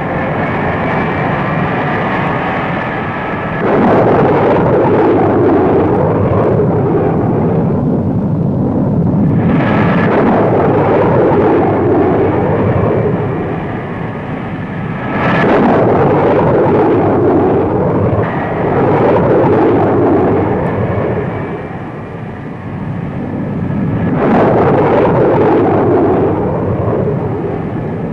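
Jet aircraft engine noise rising and falling in several loud swells, with a faint high whine in the quieter stretches between them.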